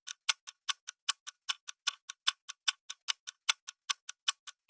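Clock-ticking sound effect used as a quiz countdown timer during the answer pause: quick, even ticks about five a second, alternating louder and softer.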